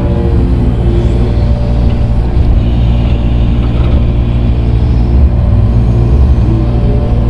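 Diesel engine of a grading machine running steadily under load while it spreads and backfills dirt, with a few short rises and falls in pitch near the start and the end.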